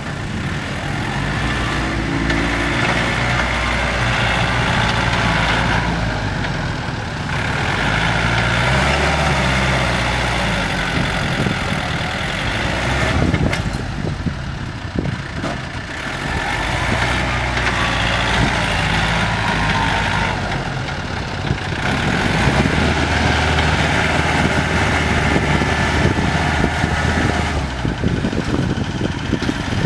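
Diesel farm tractor engines working while pushing soil, the engine note rising and falling several times as they rev up and ease off, with a rushing noise over it.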